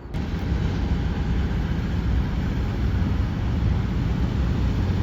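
Train running by close up: a steady, loud low rumble with a faint engine hum underneath.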